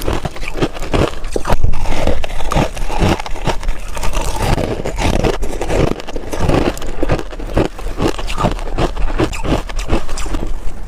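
Crushed ice being chewed close to the microphone: a constant run of crunches and cracks, several a second.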